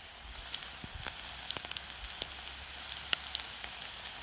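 Eggs frying in a pan, sizzling steadily with frequent small pops and crackles.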